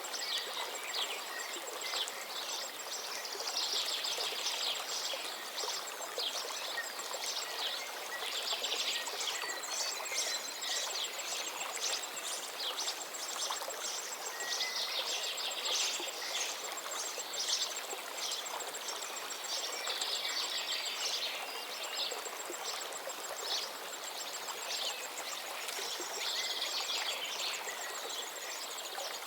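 A stream of water running steadily, with a songbird singing short phrases about every five to six seconds. A thin, high, even ticking trill runs behind, breaking off briefly near two-thirds of the way in.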